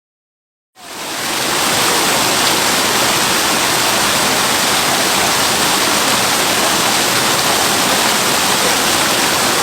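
The Tioyacu river's water rushing, fading in about a second in and then running steadily.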